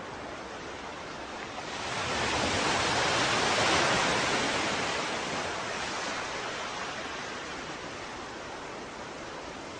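Ocean waves breaking on a shore: a steady wash of surf, with one wave swelling about two seconds in, breaking loudest around four seconds and washing out over the next few seconds.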